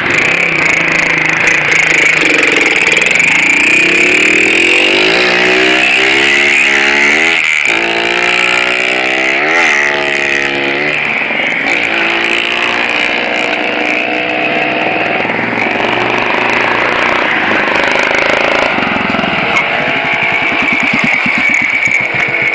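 Single-cylinder motorcycle engine revving, its pitch rising and falling several times, then running at lower speed with a slow, regular beat near the end. A steady hiss sits under it throughout.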